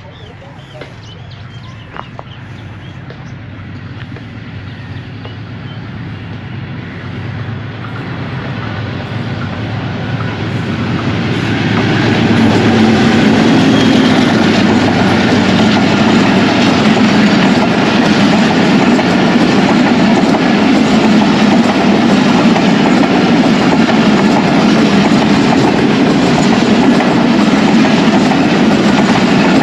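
Passenger express train hauled by a Pakistan Railways diesel-electric locomotive (AGE-30 6025) approaches and grows steadily louder. The locomotive passes close about twelve seconds in, followed by a steady loud run of passenger coaches rolling by on the rails.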